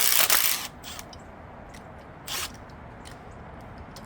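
Loud rattling of a hand tool or air tool loosening bolts on an LQ9 V8 engine during teardown, stopping about half a second in. After that, a few light metallic clicks and a clink of tools, with a louder knock about two and a half seconds in.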